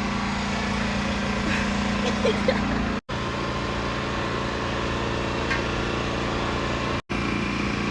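Steady engine hum with a constant low tone, broken twice by brief dropouts where the sound cuts out for an instant.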